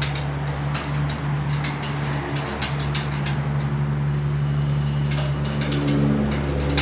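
A steady low motor hum, with light clicks and taps of a metal spoon against a cup as the drink is stirred.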